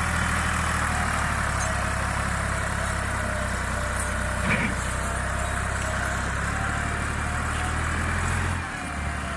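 Fiat 640 tractor's diesel engine running steadily, with a brief sharp knock about halfway through. Near the end the engine note drops and the sound gets a little quieter.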